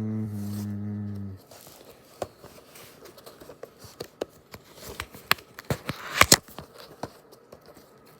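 Someone hums a steady held note for the first second and a half. Then packaging is handled, with crinkling, tearing and sharp clicks, loudest about six seconds in.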